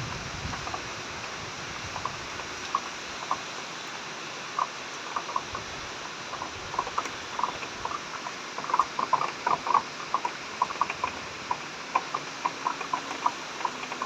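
Heavy rain falling steadily, with short plinks and plops of drops falling into standing water that get busier from about eight seconds in.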